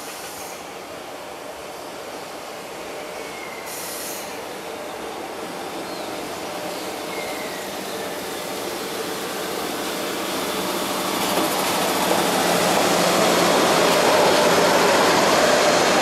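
JR Freight EF66 electric locomotive hauling a train of Hoki 9500 limestone hopper wagons, approaching and passing at slow speed as it arrives into a passing loop. The rumble of the wheels on the rails grows steadily louder as the locomotive goes by, and is loudest near the end as the wagons roll past.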